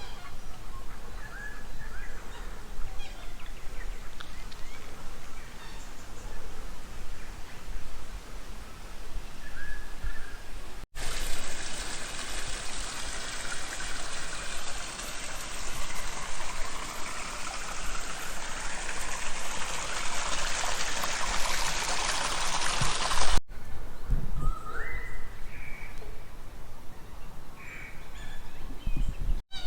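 Short bird chirps over faint outdoor background noise, broken in the middle by about twelve seconds of loud, steady rushing noise that starts and stops abruptly.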